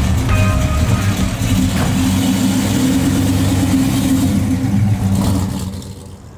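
A classic car's engine revving as the car pulls away, swelling in the middle and then fading out over the last second or so.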